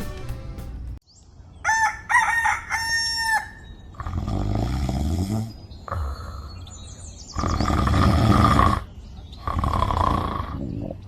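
Rooster crowing, several separate calls each about a second long, with other chicken sounds.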